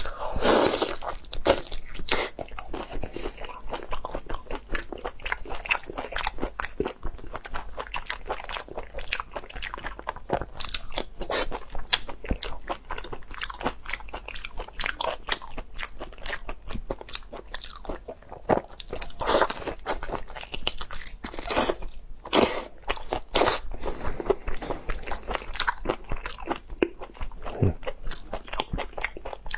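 Close-miked eating sounds: a person biting and chewing raw marinated tiger prawn meat, a dense, irregular run of clicks and smacks.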